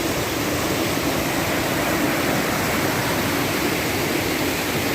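Monsoon waterfall rushing: a steady, loud hiss of falling water.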